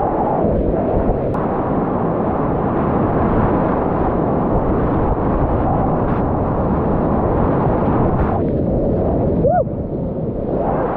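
Steady, loud rush of whitewater rapids on the Upper Youghiogheny River, heard close up from a kayak. Near the end the rush dips briefly and a short high call rises and falls.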